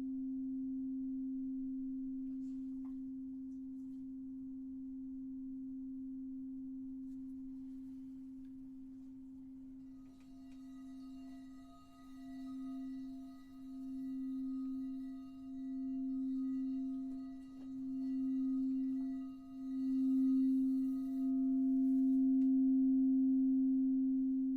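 Singing bowl sounding one sustained, steady tone with a slow wavering pulse that swells louder toward the end. Brighter, higher overtones ring over it for about ten seconds in the middle.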